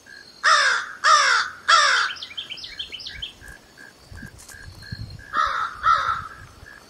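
A bird calling loudly with harsh, falling calls: three in quick succession, then a run of softer, quicker notes, then two more near the end. Behind them, a faint short high note repeats about three times a second.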